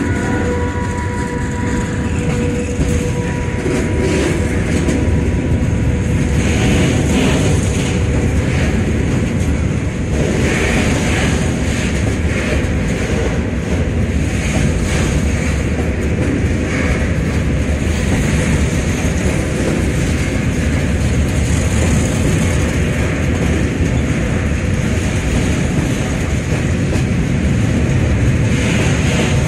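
Freight train of tank wagons rolling past close by, behind a Newag Dragon E6ACT electric locomotive: a steady, loud rumble of steel wheels on rail with irregular clatter. A steady multi-tone hum from the passing locomotive fades out in the first second.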